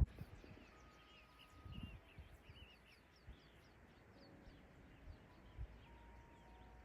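Faint birdsong: small birds chirping and twittering in quick, high notes, with a brief low rumble of handling or wind about two seconds in.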